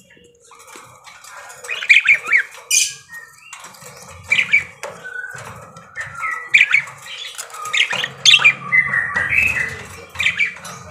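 Pet budgerigar chattering: a rapid string of chirps, warbles and harsh squawks, with short pauses between runs.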